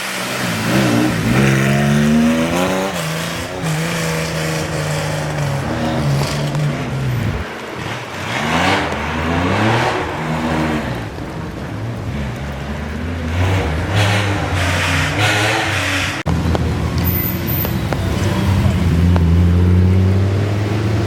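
Rally car engines revving hard and pulling through gear changes as the cars pass on the stage, the pitch rising and dropping several times. About three-quarters of the way through there is an abrupt cut to another car's engine running at a steadier, lower pitch.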